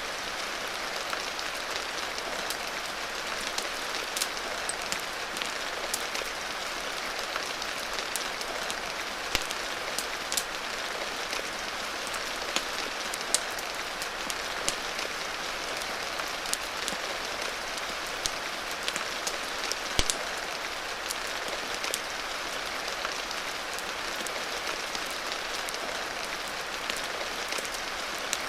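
Steady rain hiss with scattered sharp pops and crackles, typical of a wood fire, sounding through it.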